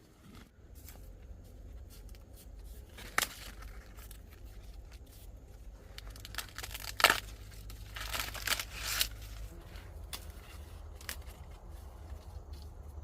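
Dry corn husks and leaves rustling and tearing, as ears of corn are picked by hand, with a few sharper snaps about 3 and 7 seconds in. A low steady rumble runs underneath.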